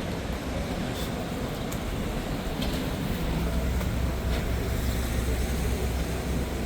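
City street traffic, with a low vehicle engine rumble that grows louder about three seconds in.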